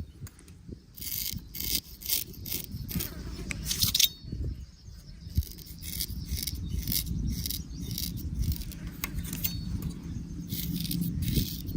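Straight razor scraping over skin and stubble in quick short strokes, about two to three a second, with a brief pause a little after four seconds. A steady low rumble of background ambience sits underneath.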